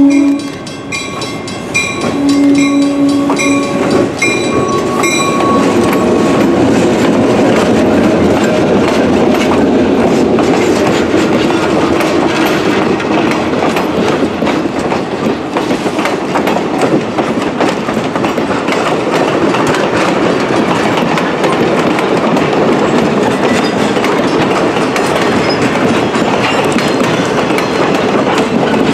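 Grade-crossing bell ringing at about two strokes a second while a diesel locomotive's horn sounds a short blast and then a longer one of about two seconds. From about five seconds in, the train runs past: EMD diesel locomotives and then a long string of passenger coaches, steady rumble with wheels clacking over rail joints.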